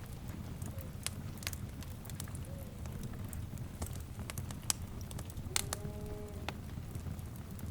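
Wood fire crackling, with a steady low rumble of flames and irregular sharp pops and snaps. A few faint pitched calls sound behind it, one longer call with several tones about six seconds in.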